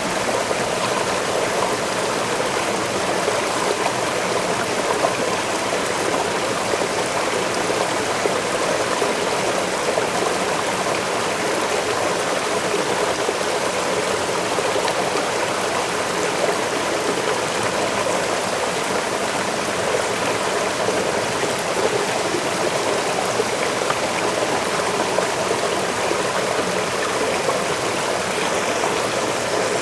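A forest waterfall with its stream, water rushing and splashing in a steady, unbroken wash.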